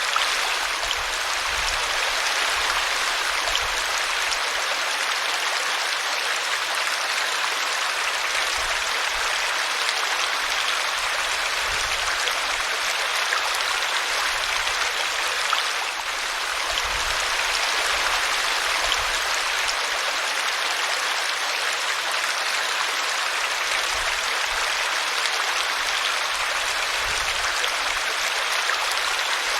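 Small brook running over a tree root: a steady babble and rush of water.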